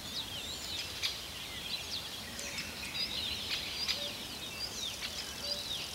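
Birds chirping in the background, many short rising and falling calls overlapping, with a few faint clicks of handling.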